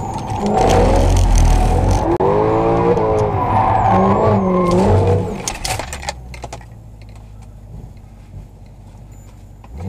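Mercedes C63 AMG's 6.2-litre V8 with catless headers revving up and down hard through a drift, heard from inside the car, then dropping to a quieter, steady low note for about four seconds before the revs climb sharply again at the very end.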